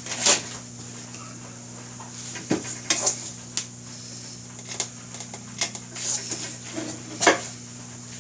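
Metal tools clinking and scraping against a motorcycle wheel rim as a tire is worked onto it by hand. There is a series of sharp clinks and knocks, loudest just after the start and again about seven seconds in, over a steady low hum.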